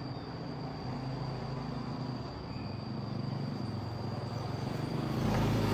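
A vehicle engine running and getting steadily louder as it approaches, over a steady high-pitched insect trill.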